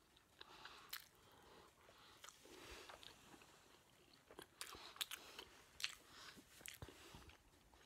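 Faint chewing of a soft mini cheeseburger close to the microphone: scattered wet mouth clicks and smacks, coming more thickly past the middle.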